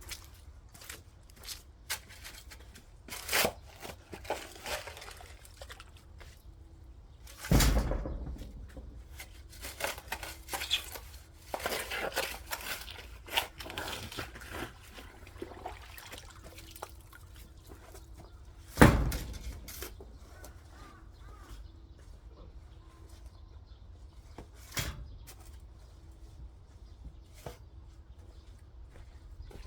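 Hand work in garden soil: scattered scrapes and knocks, with two heavier thuds about 8 and 19 seconds in.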